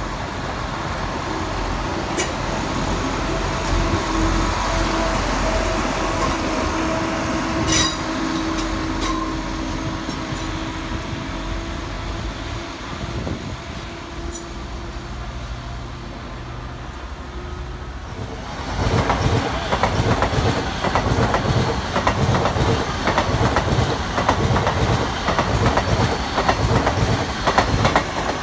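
A Northern diesel multiple unit runs with a steady drone. About two-thirds of the way in, it is overtaken in loudness by an LNER Azuma passing close at speed, its wheels clattering in a quick rhythm over the rail joints.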